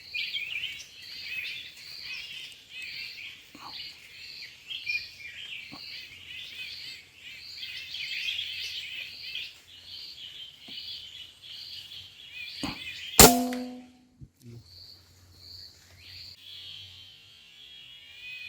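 Many birds calling and chirping together, with one high note repeated about twice a second. About 13 seconds in comes a single sharp shot from a PCP air rifle with a brief metallic ring, and the bird calls stop right after it.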